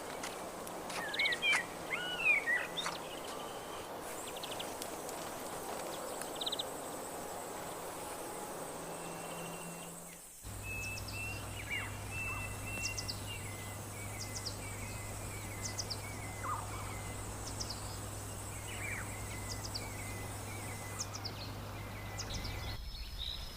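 Birds calling over a steady high-pitched insect drone and background hiss. The sound changes abruptly about ten seconds in, and after that a bird repeats a series of short notes with occasional falling chirps over a low steady hum.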